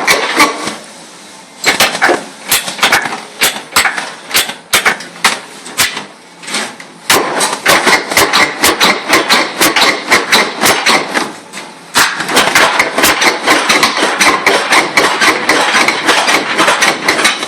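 Rapid runs of sharp knocks, several a second, broken by short pauses about a second and a half, six and a half, and eleven and a half seconds in.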